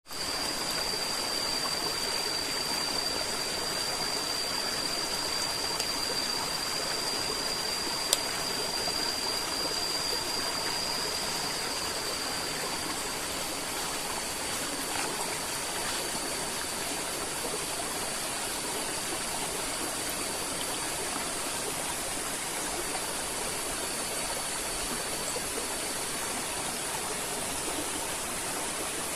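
River water flowing and rushing steadily over rocks. A thin, steady high-pitched tone runs above it and fades out near the end, and there is a single sharp click about eight seconds in.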